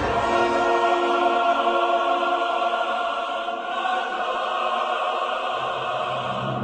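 Choral music: several voices holding long sustained chords, with a lower part coming in near the end.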